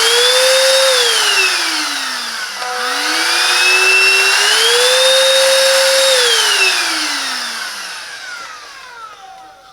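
Silvercrest cordless cyclone handheld vacuum cleaner's motor whining at full speed, then switched off and winding down in pitch. It is started again and climbs in two steps, a lower speed then a higher one (eco then boost mode), before being switched off and winding down again near the end.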